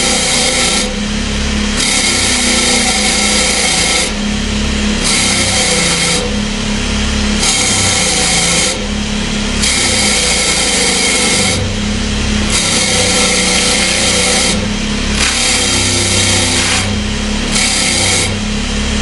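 Power sander or grinder running with a steady hum, a steel knife blade pressed against its abrasive in repeated passes a second or two long, with short gaps where only the motor is heard.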